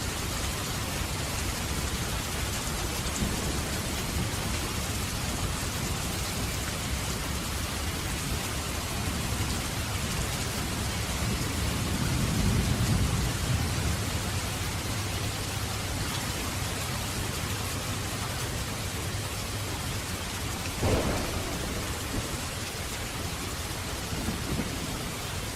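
Steady rain falling, with thunder: a low rolling rumble swells about halfway through, and a sharp thunderclap cracks near the end.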